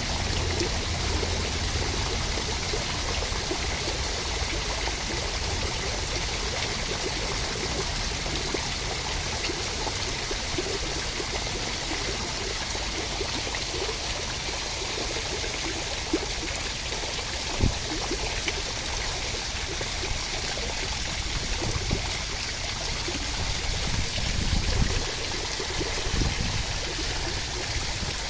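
Steady rushing water, an even unbroken wash of noise. There is one sharp tick about two-thirds of the way through and a few soft low thumps near the end.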